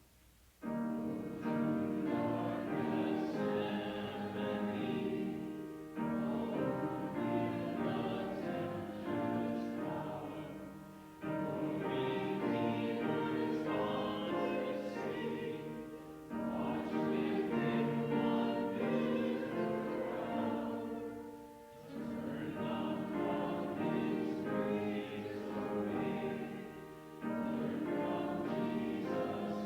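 Congregation singing a hymn together with keyboard accompaniment. The singing comes in phrases of about five seconds each, with a short dip between lines.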